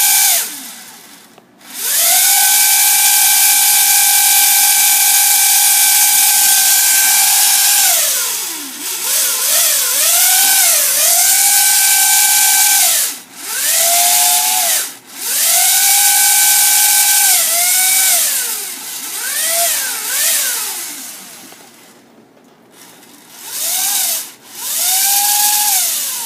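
Small brushed DC motors whining at speed, each run held steady for a few seconds, then spinning down, with several quick spin-ups and spin-downs and a hiss from the commutator brushes. The motors have 0.01 µF ceramic bypass capacitors fitted to suppress commutator noise, and here they run without stalling the Arduino controller.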